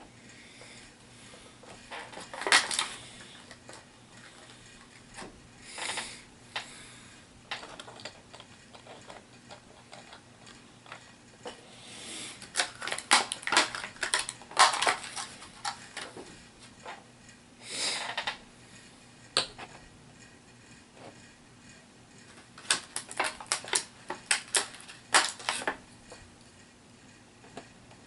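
Small hard plastic HeroClix miniatures and booster packaging being handled: scattered bursts of clicking and clattering with short rustles, busiest in the middle and again near the end.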